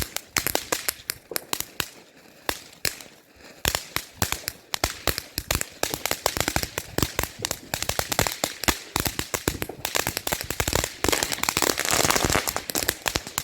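Consumer fireworks going off in a long, rapid series of sharp cracks and small bangs, thickest to a dense crackle a little before the end, then stopping.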